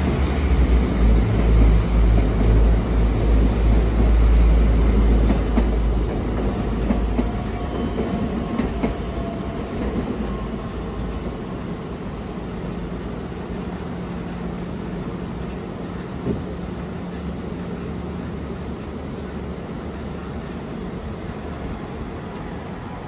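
Electric passenger train passing close below, a heavy low rumble of wheels on track that fades away after about seven seconds as it leaves, followed by quieter rail-yard noise with a single short knock near the middle.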